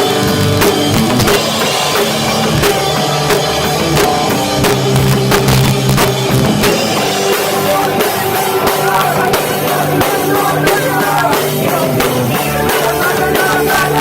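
Live rock band playing loud, with a drum kit pounding throughout, recorded through a cheap cell phone microphone that makes the sound poor and muddy.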